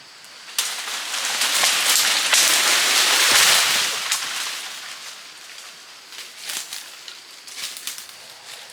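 A cut tree falling: a sudden crash of branches and leaves breaking through the surrounding growth, with many cracks of snapping twigs, that swells for a few seconds and then dies down to scattered snaps and rustles.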